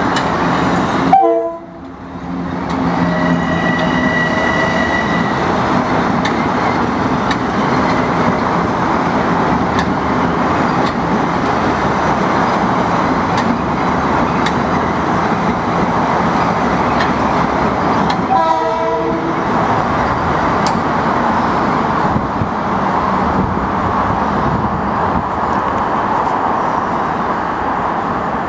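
A Metro-North commuter train running through the station: a long, steady, loud rush of wheels on rail. A brief steady tone sounds a few seconds in.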